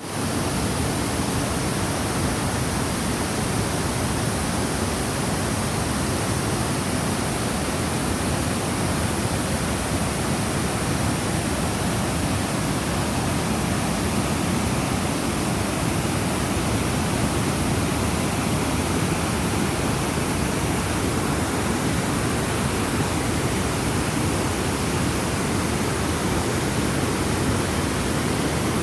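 Waterfall on a river, the water falling in a steady, unbroken rush.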